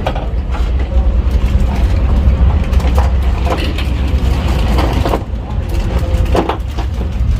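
Plastic pipe pieces and connectors knocking and clicking as they are fitted together, a few scattered knocks over a loud, steady low rumble.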